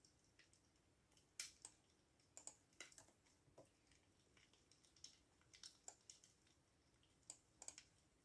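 Faint computer keyboard typing: irregular keystrokes in short clusters separated by brief pauses.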